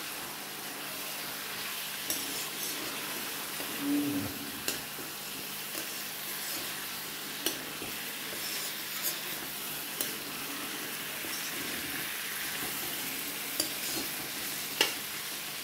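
Chicken pieces, kohlrabi and potatoes frying in oil in a metal wok with freshly added ground spices, sizzling steadily while a metal spatula stirs them. The spatula scrapes and taps against the pan now and then.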